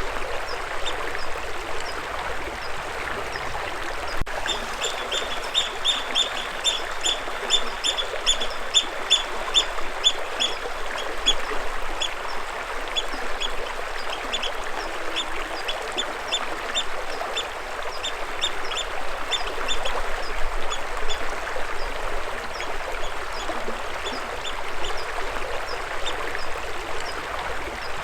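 Steady rush of running water with a bird calling over it in quick series of short, high chirps, several a second, thickest in the first half and coming in looser runs after.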